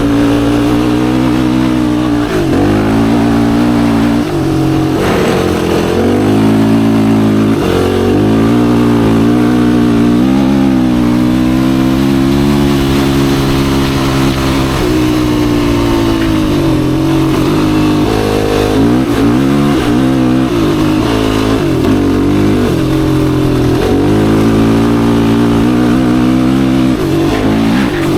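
Yamaha YFZ450R sport quad's single-cylinder four-stroke engine under way, its revs rising and falling again and again with the throttle, with a longer stretch of held revs around the middle.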